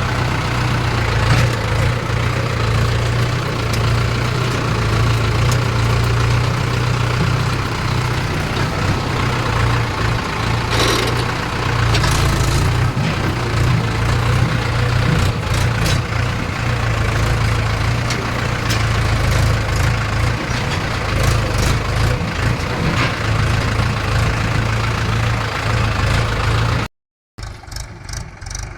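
A diesel tractor engine runs steadily with a constant low hum and a few brief clattering rattles. It cuts off abruptly near the end and is replaced by a quieter engine sound.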